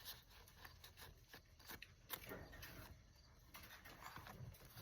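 Near silence with a few faint, scattered rustles and light taps of paper tags and journal pieces being handled.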